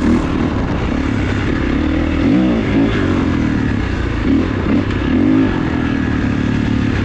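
Kawasaki KX450's single-cylinder four-stroke engine running under a rider, the revs swelling briefly and dropping back several times as the throttle is blipped.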